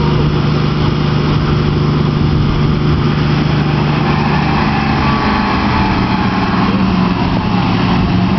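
A vehicle engine running steadily under load; its pitch steps up slightly about five seconds in.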